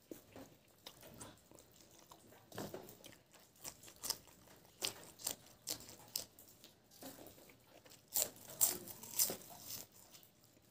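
Close-up chewing of crispy pork innard fat with rice: irregular sharp crunches, the loudest a quick cluster about eight seconds in.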